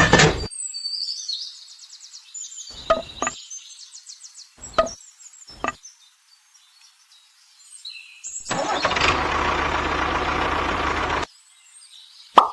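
Birds chirping and a few short knocks, then, about eight seconds in, an engine runs for about three seconds and cuts off suddenly.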